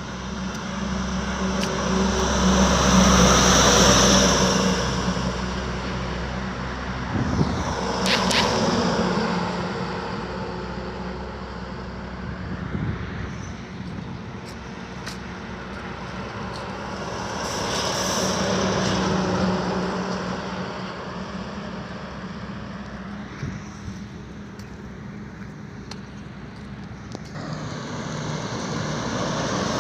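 A vehicle engine running steadily with a low hum, while road traffic swells up and fades away about three times as vehicles pass.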